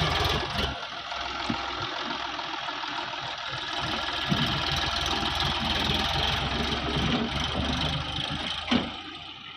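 Sonalika DI 750 RX tractor's diesel engine running; its heavy low throb drops away about a second in, leaving a lighter running note under a steady noise, with a short knock near the end.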